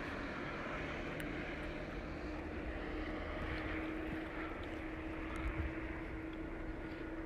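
Steady engine drone with a constant hum, heard from a distance.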